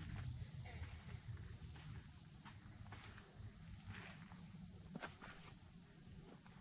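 Steady high-pitched insect chorus, like crickets or cicadas, over a low rumble of flowing river water. A few faint scattered clicks are mixed in.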